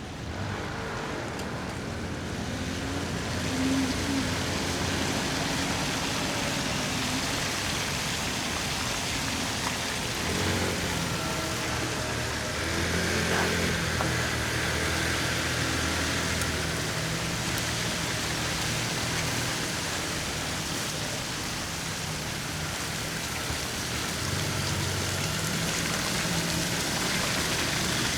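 Steady hiss of bicycle tyres rolling through wet slush, with the low hum of car engines in traffic underneath.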